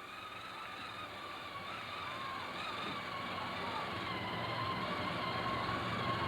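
Ride-on tractor's motor running with a steady whine, getting gradually louder as it comes closer.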